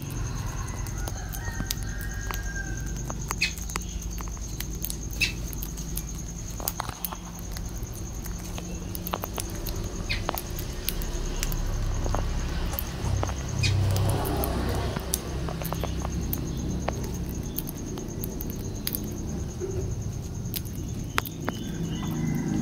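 Lovebirds moving about, with scattered sharp clicks and a few short chirps over a steady high-pitched whine.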